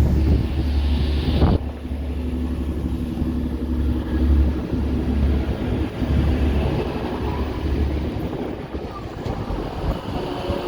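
Strong gusty wind buffeting the microphone in uneven low rumbles, with a steady engine hum underneath and a brief knock about a second and a half in.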